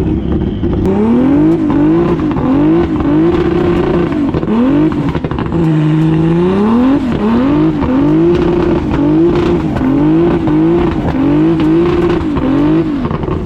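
Car engine revving hard while the car is drifted. The revs climb and drop about once a second as the throttle is worked, with one deeper dip and a longer climb midway.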